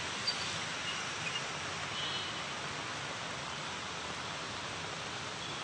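Heavy rain pouring down, a steady, even hiss, with a short click just after the start and a few faint, brief high-pitched sounds in the first two seconds.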